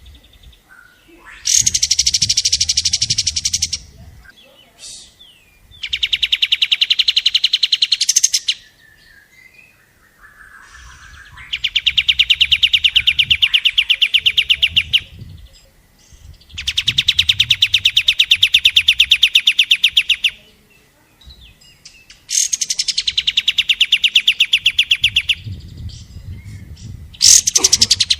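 Rapid-fire trilling song of a kapas tembak bird: a fast, even string of repeated notes in bursts of about three seconds, six times, with short pauses between.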